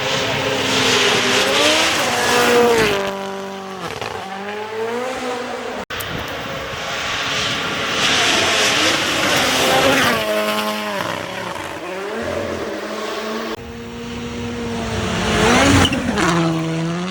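Rally cars passing at full throttle, one clip after another. The engine pitch climbs through the gears and drops back at each shift or lift. The sound cuts off sharply about six seconds in and changes abruptly again about two-thirds of the way through.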